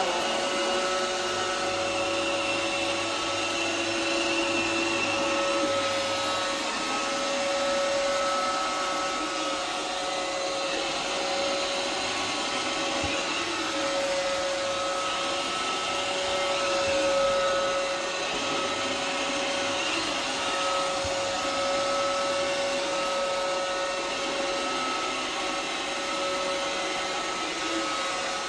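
Roomba robot vacuum running: a steady whir from its motor and brushes, with a constant hum.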